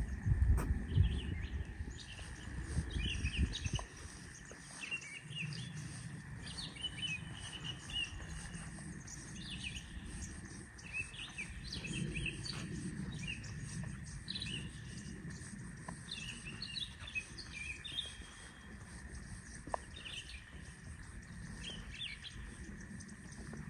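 Small birds chirping and twittering in short, scattered calls, with a low rumble in the first few seconds.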